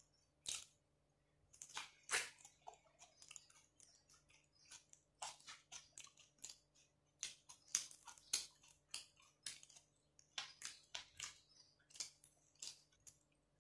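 Faint close-up chewing: irregular soft crunches and mouth clicks as someone eats.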